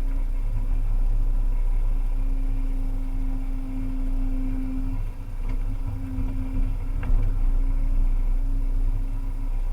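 Volvo EC300E excavator at work, its diesel engine running with a steady low drone. A humming tone over it breaks off briefly about five seconds in and comes back, and there is a short sharp knock about seven seconds in.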